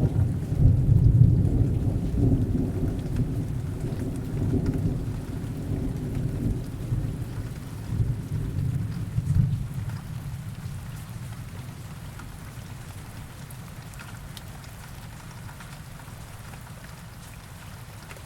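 Heavy rain with distant thunder: a low rolling rumble of thunder fades away over the first half, leaving the steady hiss of rain.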